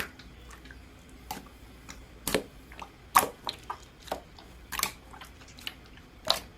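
Slime being squeezed and pressed by hand, giving a series of irregular sharp pops and squelches.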